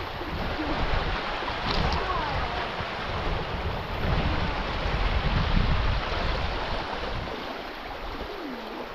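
Rushing river water, a steady noisy wash, with heavy low rumbling that eases off near the end.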